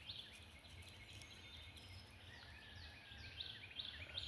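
Birds chirping faintly: a run of short, falling chirps repeated many times, over a faint low rumble.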